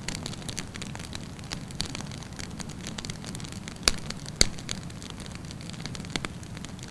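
Wood campfire burning with a steady low rumble and frequent crackles, with two loud pops about four seconds in, half a second apart.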